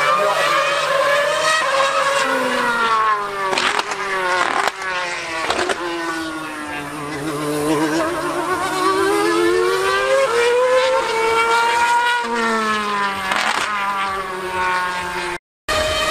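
A 2013 Formula 1 car's high-revving V8 screams, its pitch climbing and falling again and again as it accelerates and slows, with sharp breaks at the gear shifts. The sound cuts out completely for a moment near the end.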